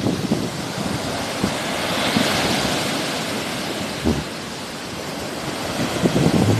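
Sea waves washing on the shore: a hiss of surf swells about two seconds in and then ebbs away. Wind buffets the microphone, with gusty rumbling that picks up again near the end.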